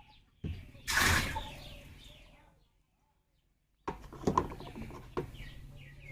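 Young broiler chicks cheeping, with clicks and a short rush of handling noise about a second in. The sound drops out completely for over a second in the middle.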